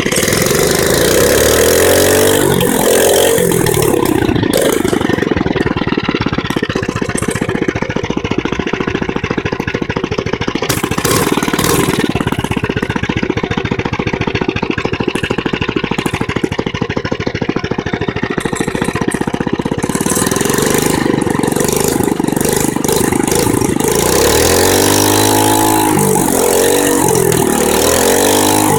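Mini bike's small engine running: revved up and back down near the start, idling for a long stretch, then revved up and down again for several seconds near the end.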